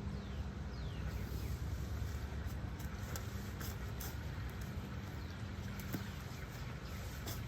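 A steady low engine hum, like a vehicle or machine running, with faint falling chirps of small birds over it.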